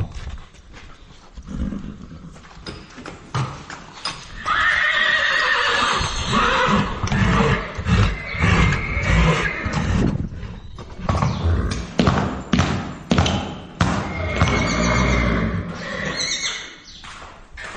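Horses whinnying several times, the loudest and longest call starting about four seconds in, with hooves clopping between the calls.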